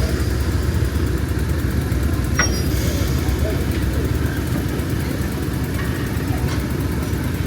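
Diesel locomotive engine running steadily, a dense low-pitched sound, with one short sharp click about two and a half seconds in.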